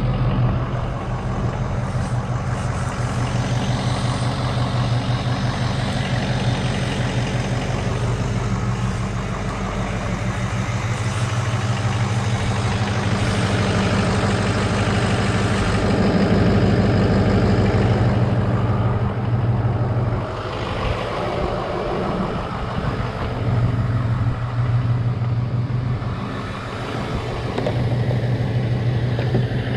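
Truck engine idling steadily, with a shifting rushing noise over it.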